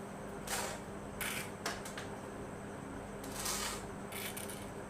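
Several short scraping and rustling handling sounds: electrical wires being twisted together and tightened with pliers.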